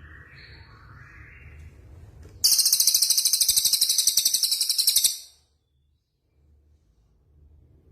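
Recorded songbird: soft warbling phrases over a low hum. Then a sudden loud, very high-pitched, rapidly pulsing trill that lasts about two and a half seconds and stops abruptly.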